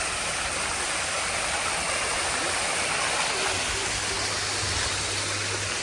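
Garden fountain running: a steady, unbroken rush of splashing water.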